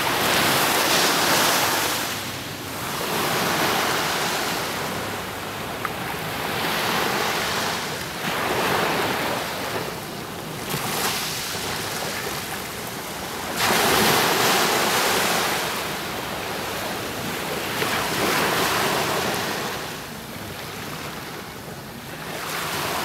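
Black Sea surf: waves breaking and washing up the shore, the rush swelling and falling back every few seconds. A heavier wave breaks suddenly about halfway through.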